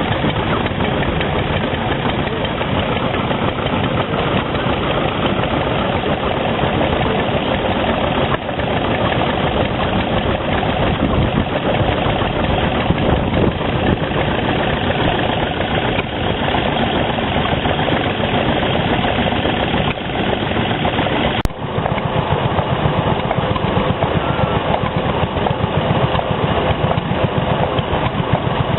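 Stationary engines running steadily, a dense, even engine noise. About two-thirds of the way through there is a brief dropout, after which the sound changes slightly in character.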